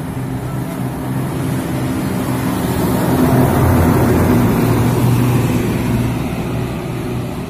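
Truck engine running, with a steady pitch, growing louder to a peak about halfway through and then easing off, as a truck passing close by.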